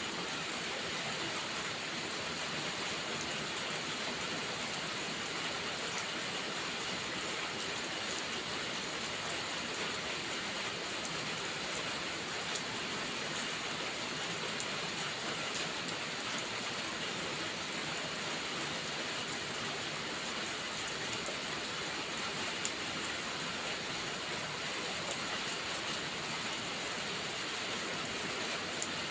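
Steady rain: an even, unbroken hiss with scattered faint ticks.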